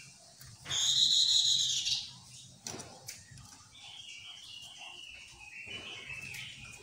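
Chestnut-capped laughingthrush calling: a loud, harsh, rasping note lasting just over a second near the start, then a quieter run of warbling notes that step downward in pitch.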